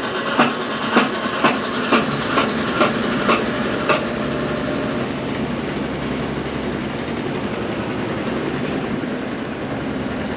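Consul Facilite 10 kg top-loading washing machine in its wash stage, its Brastemp BWL09 agitator working the load. Sharp knocks come about twice a second for the first four seconds, then it runs on with a steady noise.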